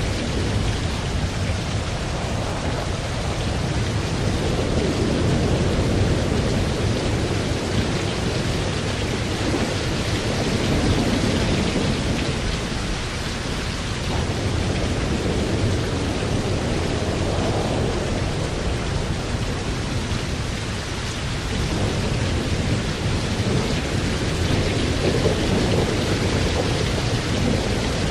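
Thunderstorm: steady rain with thunder rumbling low underneath, swelling and easing every several seconds, without sharp cracks.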